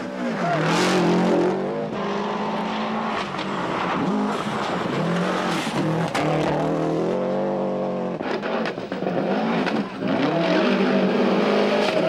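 Rally car engine revving hard, its pitch climbing and then dropping at each gear change, several times in a row.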